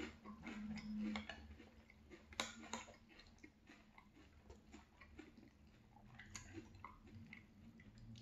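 Faint, close-up crunching of French Toast Crunch cereal in milk being chewed, in irregular crunches that are sharpest about two and a half seconds in and sparser afterwards.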